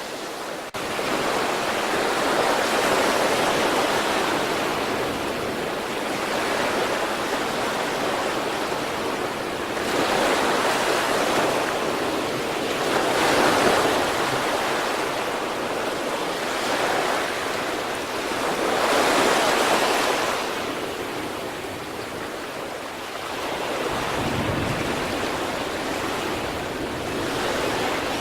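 Sea surf: waves breaking and washing up the shore in a continuous rush. The rush swells and ebbs every few seconds, with the biggest surges about halfway through and again a little later.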